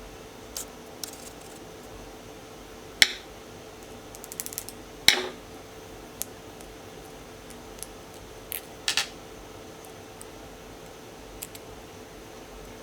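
Scattered sharp clicks and light metallic taps from the parts of a Penn Senator fishing reel being handled and fitted together: two loud clicks a couple of seconds apart with a quick run of small ticks between them, then a double click and a few faint ticks.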